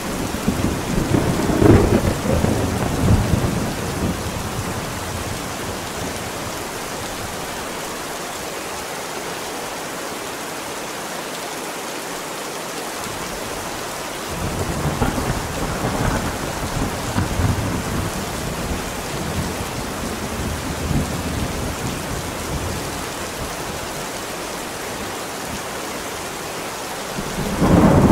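Steady heavy rain with rolling thunder, in 8D audio: a rumble in the first few seconds, another about halfway through, and a louder one starting near the end.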